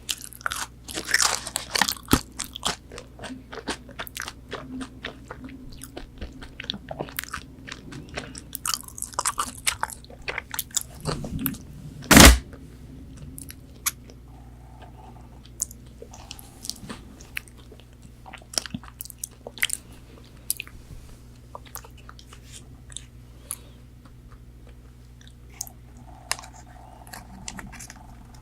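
Close-miked biting and chewing of crispy fried chicken nuggets: crunchy bites and chews, densest in the first ten seconds, then softer, sparser chewing. A single loud thump about halfway through.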